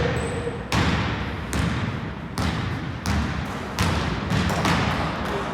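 Basketball bouncing on an indoor court, six thumps a little under a second apart, echoing in the sports hall.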